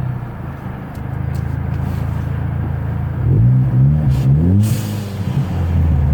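Car engine running at a low, steady note. It is revved briefly a couple of times about halfway through, with a short hiss as the revs fall away.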